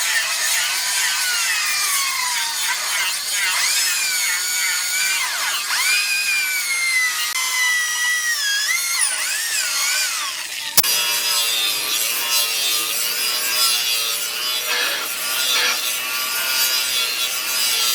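Continuous rasping scrape of a hand tool worked against the knife's steel or wooden handle, with squealing tones that glide up and down. A sharp click about 11 seconds in, after which the scraping goes on with a rougher texture.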